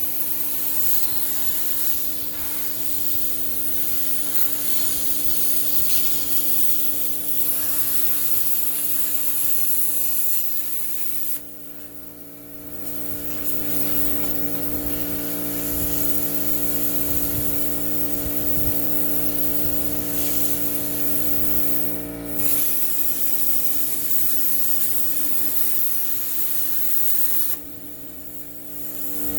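A power tool running steadily with a hissing, rubbing sound, stopping briefly twice, once near the middle and once near the end.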